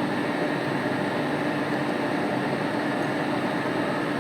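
CNC router running steadily as it resumes its program, a constant mechanical hum with a fainter high whine.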